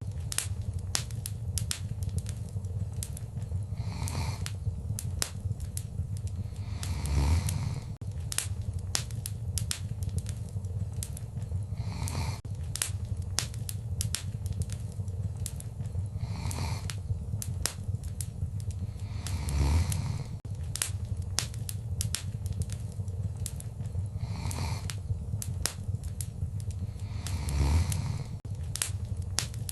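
Wood fire in a fireplace crackling, with many sharp pops over a steady low rumble, and louder swells of crackle every few seconds, some with a dull thump.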